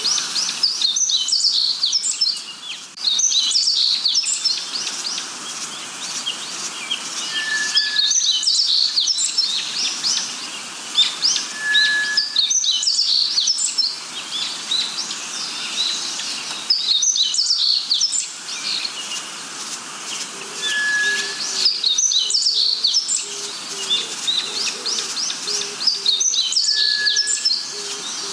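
Birds chirping and singing in quick, high phrases that come back every few seconds, with a short clear whistle now and then.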